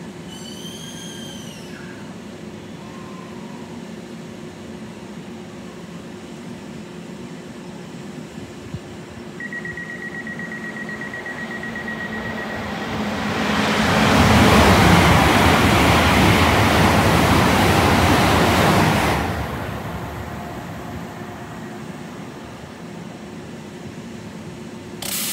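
A train passing through the station at speed. Its noise builds over several seconds, is loudest for about six seconds, then dies away. A thin steady high tone is heard for a few seconds as it approaches.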